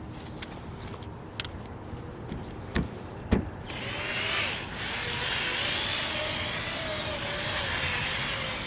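A few knocks, then about four seconds in a Milwaukee drill starts and runs steadily, spinning a wool pad that is compounding a plastic headlight lens. Its pitch wavers slightly as it runs.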